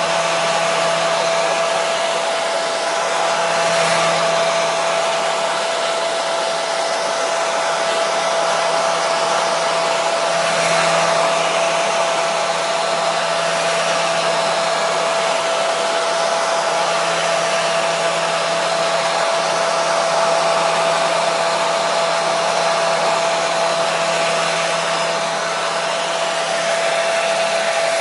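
Hair dryer running continuously: a steady, even rushing hiss of blown air with a constant motor whine.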